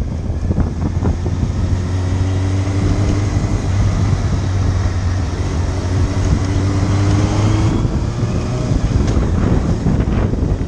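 Motorcycle engine running while riding, with heavy wind noise on the microphone; the engine note rises slowly twice.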